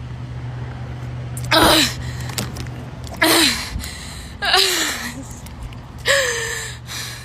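A person's voice making four short, breathy exclamations, each falling in pitch, over a steady low hum.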